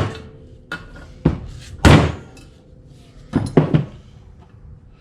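A hammer striking the valve spring retainers on an engine's cylinder head to knock the keepers loose and free the valve springs. About six sharp metallic knocks with brief ringing, the loudest about two seconds in and a quick group of three a little past halfway.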